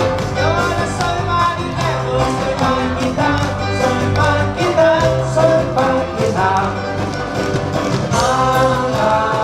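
A live band playing an upbeat song: a melody line over bass notes and a steady drum beat.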